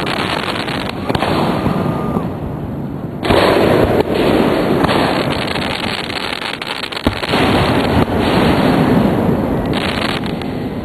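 Aerial firework shells bursting one after another, with continuous crackling between the bursts. The loudest bursts come about three seconds in and again about eight seconds in, with a sharp bang about seven seconds in.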